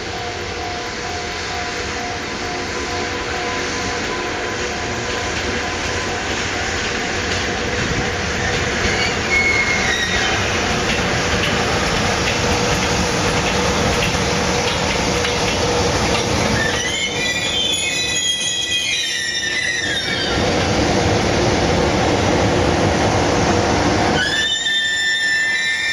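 Freight train rolling by with a steady rumble of wheels and wagons. High-pitched wheel squeals rise briefly about a third of the way in, louder about two-thirds through, and again near the end.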